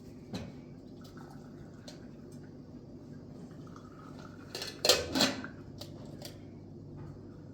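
Metal plastering tools clinking and scraping against a metal pan of cement mortar, with a light click near the start and two loud clanks in quick succession about five seconds in, over a low steady hum.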